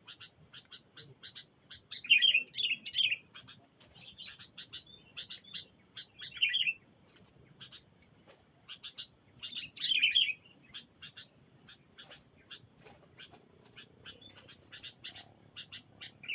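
Birds calling, taken to be sooty-headed bulbuls (kutilang): a steady run of short chirps, about three a second, broken by louder bursts of calls about two seconds in, at six and a half seconds, at ten seconds and near the end.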